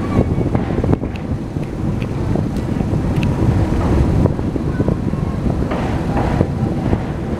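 Passenger train running at speed, heard from the coach: a steady rumble of wheels on rail with scattered clanks and knocks, and wind buffeting the microphone.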